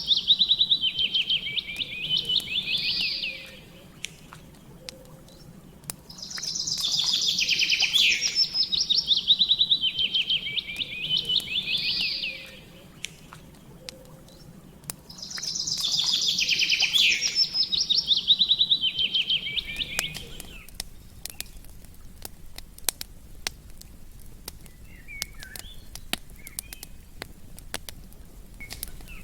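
A songbird sings three long trilling phrases, several seconds each, about every nine seconds, over the steady crackle and pop of a campfire. After the last phrase, about two-thirds through, only the fire's crackling remains.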